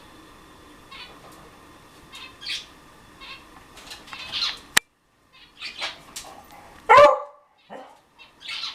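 Short bird chirps and squawks, with a sharp click near the middle and one loud, harsh call about seven seconds in.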